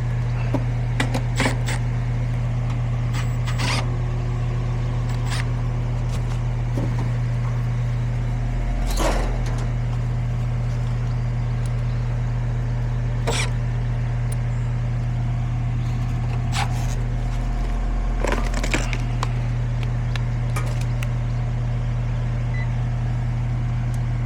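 Goodman air-conditioner condensing unit humming steadily with only its fan motor running and the compressor not running, a sign the compressor is failing to start. Scattered clicks and scrapes from handling the unit's panel and parts.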